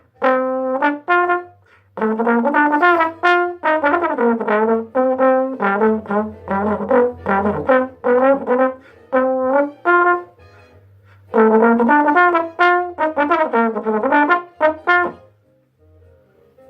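A solo brass instrument plays a jazz melody in short, separated notes. It drops back briefly about ten seconds in and stops about fifteen seconds in.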